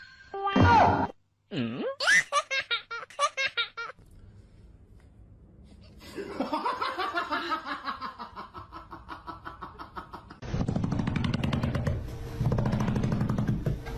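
Laughter in several separate bouts of rapid pulses, with short gaps between them; the loudest bouts come near the end.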